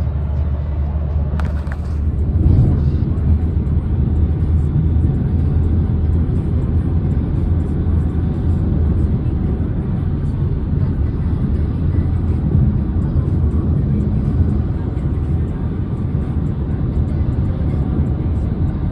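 Steady rumble of a car on the road, engine and tyre noise heard from inside the cabin, with a brief click about a second and a half in.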